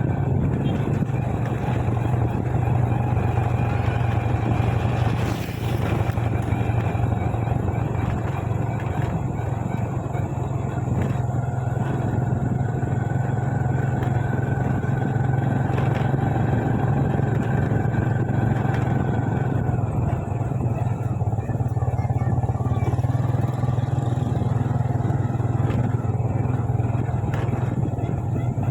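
Motorcycle engine running steadily at an even cruising speed, its low hum mixed with road noise.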